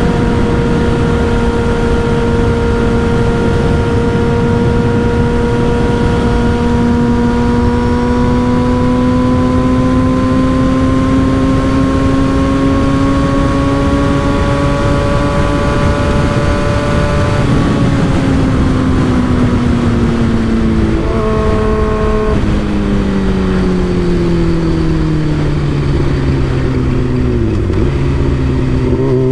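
Motorcycle with an M4 aftermarket exhaust riding at steady throttle, its note climbing slowly for about seventeen seconds. It then drops off throttle with a short blip partway and falls in pitch as the bike slows, and picks up again right at the end. Heavy wind rumble on the microphone runs under it.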